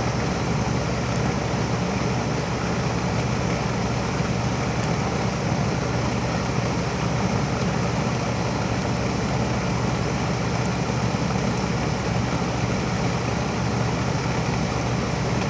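Steady hum of a 2005 Amana 4-ton R-22 heat pump running its defrost cycle: the compressor runs on with the outdoor fan stopped while the coil sheds its frost as steam.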